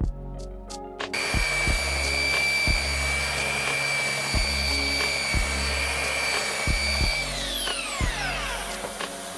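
A small electric power tool, such as a drill or rotary tool, starts about a second in and runs at a steady speed with a high whine. About seven seconds in it is switched off and its whine falls in pitch as it spins down, over background music with a steady beat.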